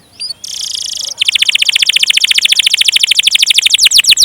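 Domestic canary singing: a short buzzy note, then a long, fast rolling trill of evenly repeated high notes that changes near the end into quick downward-sweeping notes.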